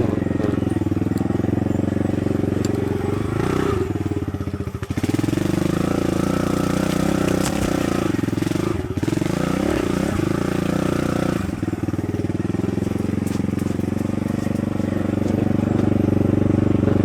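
Kawasaki KLX110 dirt bike's small single-cylinder four-stroke engine running under throttle while ridden. The revs dip and climb again a few times, with a short drop about four and a half seconds in.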